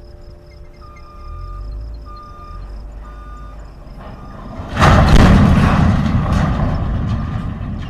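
Three short steady warning tones, then a little before five seconds in a sudden loud boom from a water tower being demolished, rumbling and fading slowly over the next three seconds.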